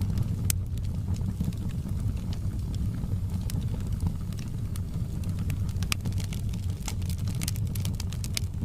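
Fireplace wood fire: a steady low rumble with scattered sharp crackles and pops, which come more often in the second half.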